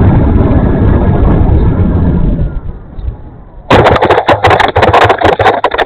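Strong wind buffeting the microphone in a heavy low rumble, which dies away about halfway through. Then, suddenly, a loud, dense run of crackling knocks and rustles that stops abruptly.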